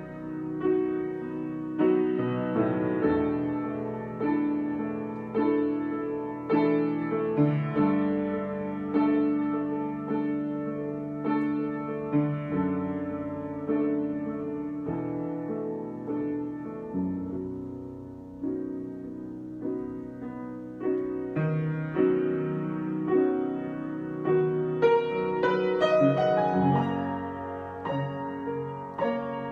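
Solo piano improvisation: chords and melody notes struck and left to ring and fade, moving into higher notes near the end.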